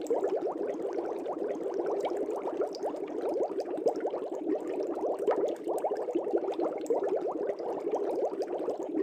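Air bubbles streaming up through aquarium water: a continuous, dense bubbling made of many small rapid bubble sounds.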